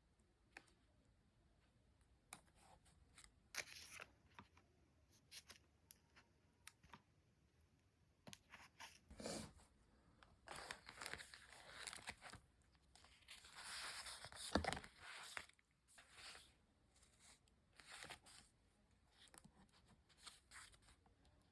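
Faint paper and sticker handling: scattered light taps and clicks, with a few longer rustling, scraping stretches in the middle.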